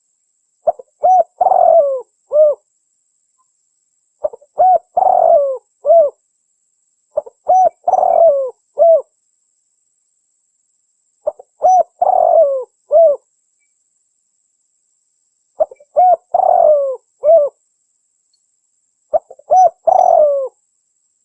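Spotted dove (tekukur) song: six cooing phrases, each a few short notes that end in a longer falling coo, repeated about every four seconds with complete silence between them, as in a looped lure recording.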